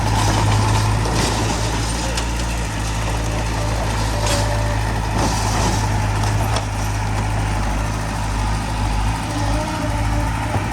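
Heavy diesel machinery running steadily at a landfill dump, with several sharp knocks and a short hiss about five seconds in.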